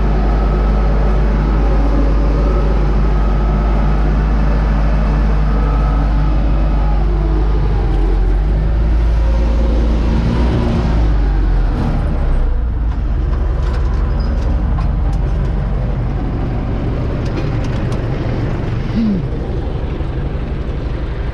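U650 tractor's four-cylinder diesel engine running steadily with a heavy low rumble. About twelve seconds in, the engine note changes and gets slightly quieter, with scattered clicks and rattles after it.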